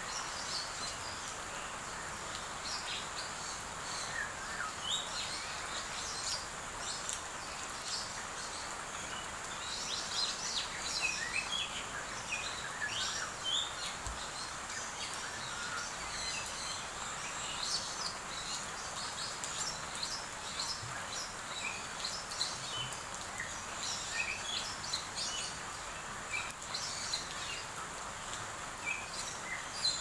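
Small birds chirping, many short high calls scattered throughout, over a steady hiss.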